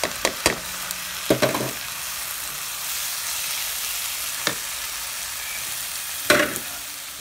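Marinated chicken pieces sizzling steadily as they go into a hot pan of frying shallots and green chilies. Several sharp knocks break through the sizzle, most of them in the first second and a half, the loudest about six seconds in.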